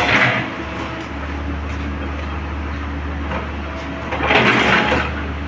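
Komatsu PC130 excavator's diesel engine running steadily, with a short scraping or hissing burst at the start and another about four seconds in.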